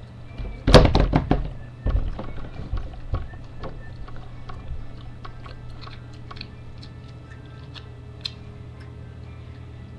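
Food being chewed and crunched close to a webcam microphone: a loud burst of crunching about a second in, then quieter crunches and small clicks, over a steady low electrical hum.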